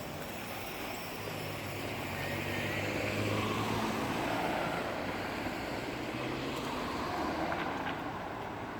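A low, steady engine drone that swells about a third of the way in and then slowly eases off, over outdoor background noise.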